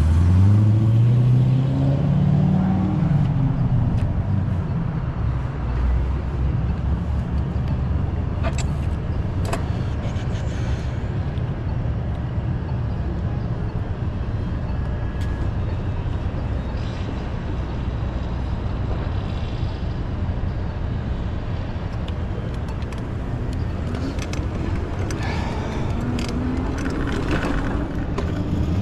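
Downtown street traffic heard from a moving bicycle: a steady low rumble of road noise. About a second in, a motor vehicle's engine rises in pitch as it accelerates, and another does so near the end. A couple of sharp clicks come about a third of the way through.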